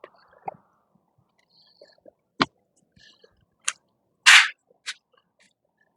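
Microfiber towel wiping water off a car's paint and glass: scattered soft rubs and clicks, with one short loud swish a little past four seconds in.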